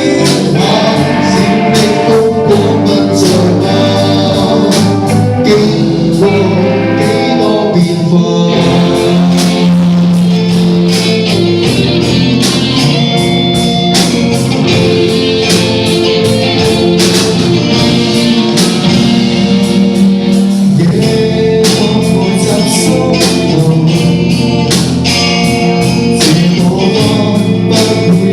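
Band music with a singer, played live, with a steady drum beat.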